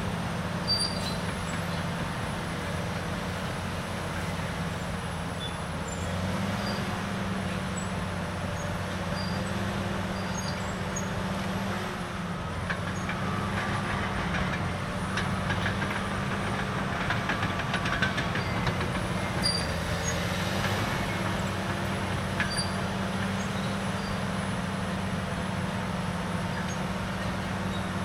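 Caterpillar D6R dozer's C9 diesel engine running steadily at work. A stretch of clattering comes in from about twelve to twenty seconds.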